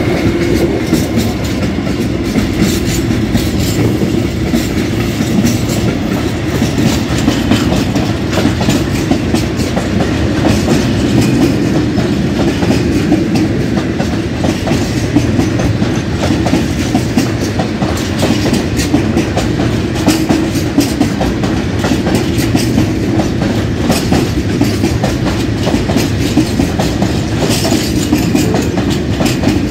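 Freight train of open-top box wagons rolling past: a loud, steady rumble of steel wheels on rail with a rapid, continuous clatter of clicks over the rail joints and points.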